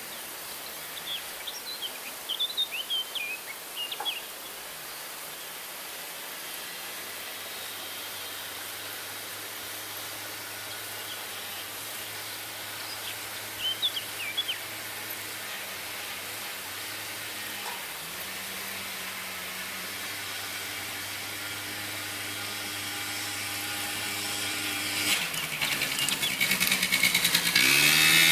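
Quad bike engine running steadily at a distance, then growing louder over the last few seconds, its pitch dipping and climbing again near the end. Small birds chirp in short bursts twice.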